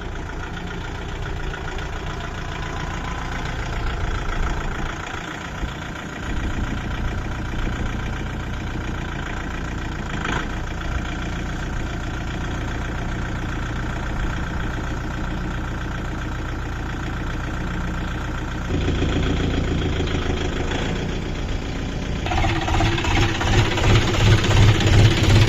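Kubota tractor's diesel engine running steadily. It grows louder in two steps in the last several seconds and ends in a heavy, pulsing low beat.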